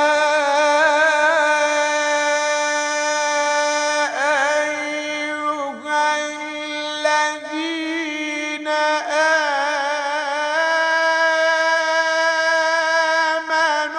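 A man's voice in mujawwad Quran recitation, holding a long melismatic note on the opening 'Ya' of 'Ya ayyuha' with ornamented wavers and turns, pausing for breath a few times.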